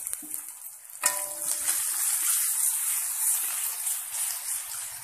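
Ginger-garlic paste and onions sizzling in hot oil in a wok while being stirred. The sizzle jumps up sharply about a second in and then holds as a steady loud hiss.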